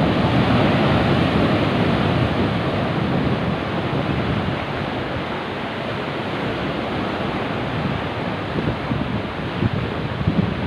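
Sea waves surging and breaking, with wind buffeting the microphone; the loudness swells and eases slowly.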